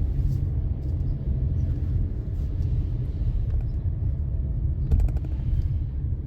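Steady low rumble of a car driving, heard from inside the cabin, with a brief cluster of clicks about five seconds in.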